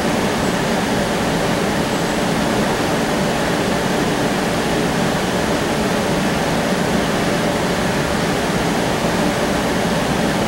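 Steady noise inside the passenger cabin of a CAF Urbos 3 streetcar: the car's running rumble and ventilation, with a faint steady hum.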